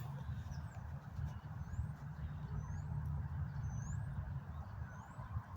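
Steady low outdoor rumble, with a small bird giving short, high, upward-sweeping calls about once a second, five or so in all.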